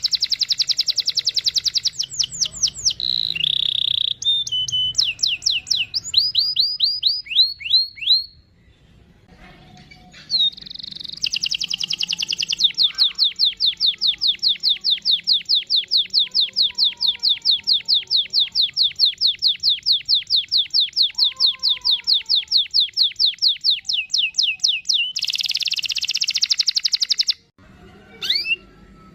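Domestic canary singing long rolling trills: fast runs of high notes, a short pause about a third of the way in, then a long roll of rapidly repeated sweeping notes lasting about twelve seconds, ending in a dense buzzing trill that cuts off suddenly.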